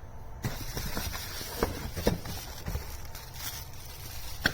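A few light clicks and knocks over a steady hiss and low rumble.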